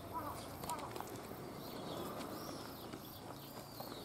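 Birds chirping over quiet outdoor ambience: a few short chirps in the first second, then repeated higher arching calls. A few light footsteps are also heard.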